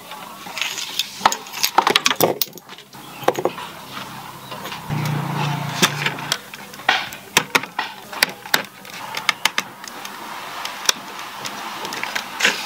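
Irregular sharp clicks, taps and knocks of the YU XIANG F11-S Apache RC helicopter's body as it is handled and turned over by hand on a hard mat.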